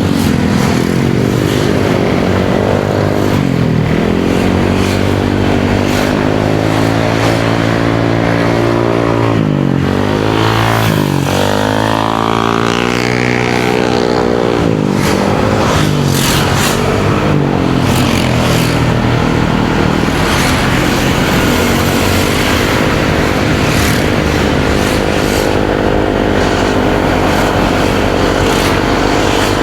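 Motorcycle engine running as the bike is ridden, its pitch dropping and rising again several times as the throttle is eased off and opened, with a steady rush of wind and road noise underneath.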